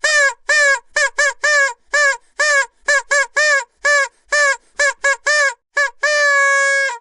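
Vuvuzela blown in quick short toots, about two to three a second, each note bending up in pitch as it starts, then one long held note of about a second near the end.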